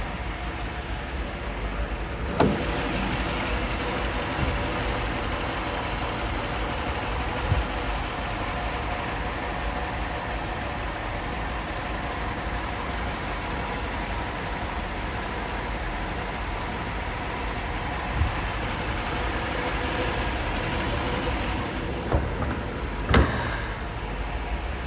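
Cold start of a 1957 Ford Thunderbird E-code 312 V8 with twin four-barrel carburetors. It catches about two seconds in and then idles steadily. Near the end there are a couple of sharp knocks, and the engine sound drops away.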